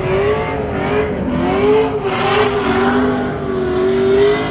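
Car engine held at high revs, its pitch wavering up and down, with a brief noisy rush about two seconds in.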